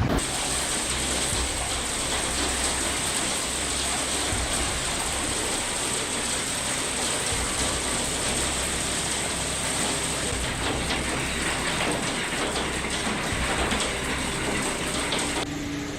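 Heavy rain drumming on a hard surface, a dense steady hiss full of fine rapid patter. It changes abruptly just before the end to a quieter low hum.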